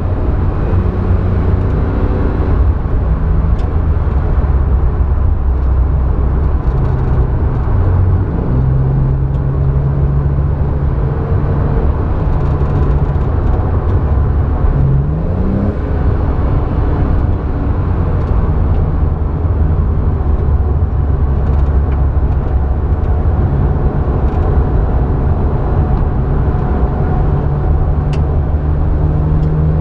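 Porsche 911's flat-six engine heard from inside the cabin while lapping a race track. The engine note rises and drops several times with the driving, over a steady low rumble.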